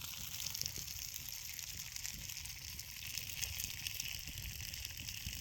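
Small campfire burning, a steady hiss with light scattered crackles.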